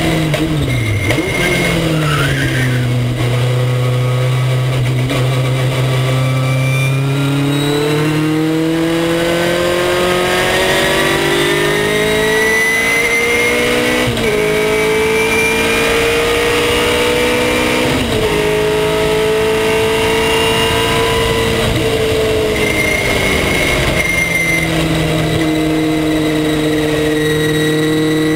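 Race car engine at speed on track: its pitch drops sharply at the start, then climbs steadily under acceleration, with two brief breaks at gear changes about halfway and two-thirds through, before falling again near the end and holding steady.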